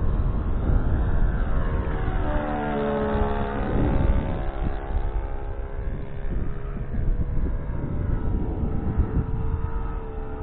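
Saito 40 four-stroke glow engine of a Sig Four-Star 40 RC model airplane running in flight, its drone sweeping down in pitch as the plane passes by about three to four seconds in. Gusts of wind rumble on the microphone throughout.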